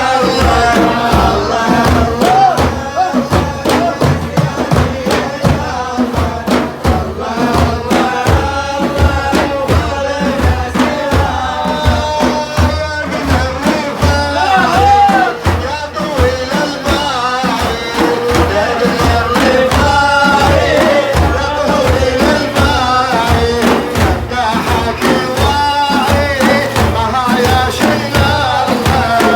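Sufi devotional praise song for the Prophet, a man's voice singing a wavering melody over a steady beat of hand drums.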